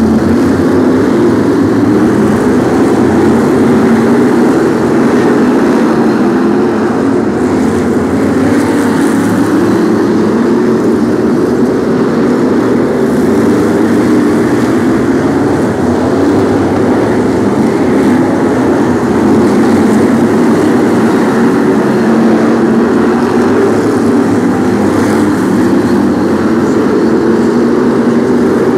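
A field of BriSCA F1 stock cars racing, their big V8 engines making a loud, continuous mass of engine noise with no break.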